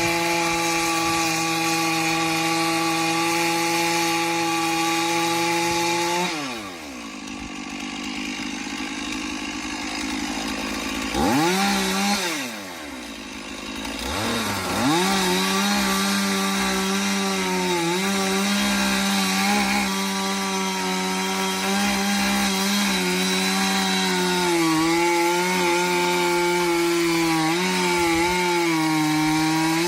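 Two-stroke chainsaw cutting wood at full throttle. About six seconds in, the throttle is released and the engine falls to idle, is blipped up and down once, then revs back to full speed and holds with slight dips in pitch as the chain works through the wood.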